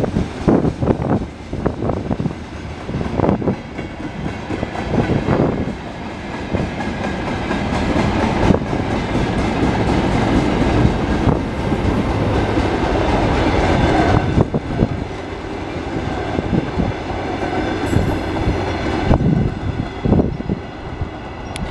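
Mixed freight train's wagons rolling past close by: a steady heavy rumble with the clickety-clack of wheels knocking over rail joints.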